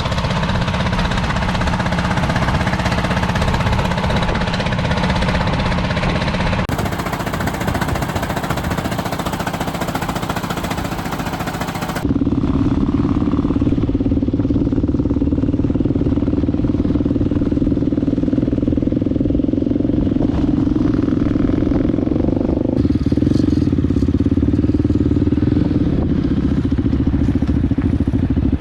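Enduro motorcycle engine running steadily while riding. The first part has a rushing noise over the engine, and the sound changes abruptly twice, about a quarter of the way in and again near the middle, after which a steady engine hum stands out.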